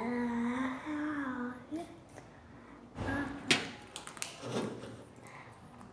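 A voice held on one drawn-out, slightly wavering sound for about a second and a half, without words. About halfway through come a few sharp clicks and knocks.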